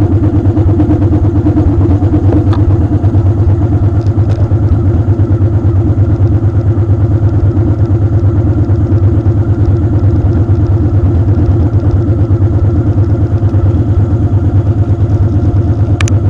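Motorcycle engine running steadily with a fast, even pulse, and a short click near the end.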